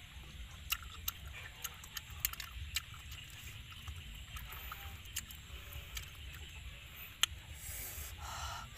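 Close mouth sounds of a person eating boiled snails in chili sauce: scattered sharp, wet clicks and smacks of chewing, about a dozen over the stretch, over a steady low rumble.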